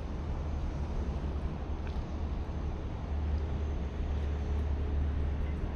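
Busy waterfront city ambience: a steady low rumble, as of traffic or engines, under an even haze of background noise, with a faint steady hum joining about three seconds in.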